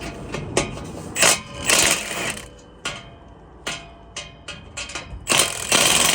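Hand tools working on a truck's exhaust pipe joint: irregular metallic clicks and clinks, with two longer rasping stretches, one about a second in and one near the end.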